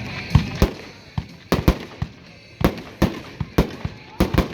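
World Class Rock Till You Drop consumer multi-shot firework cake firing: an uneven rapid string of sharp bangs, several a second, with a short hiss near the start.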